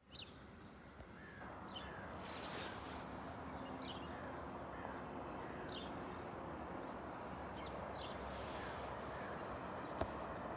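Birds calling: a short, high, falling call repeated every second or two, with softer, lower calls in between, over a steady outdoor hiss.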